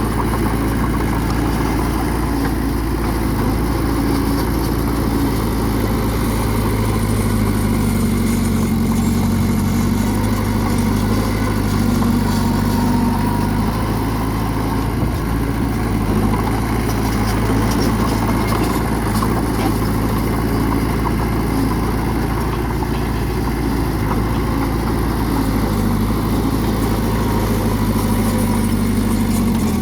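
Heavy diesel engine of earthmoving machinery running steadily, its pitch shifting slightly now and then.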